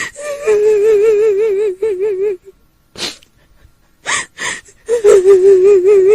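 A woman's voice wailing and crying with a quavering, wobbling pitch, in the manner of a kuntilanak's ghostly weeping. The sound breaks off about two seconds in, gives way to a few sharp gasping breaths, and resumes about five seconds in.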